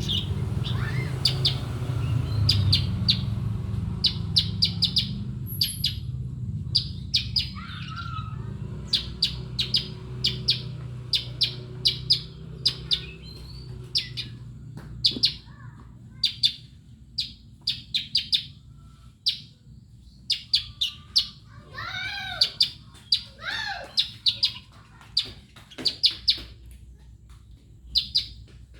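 A bird known in Indonesia as the bayeman calling: sharp, high chirps repeated in quick clusters of two to four, with a few lower, arched whistled notes a little past the middle.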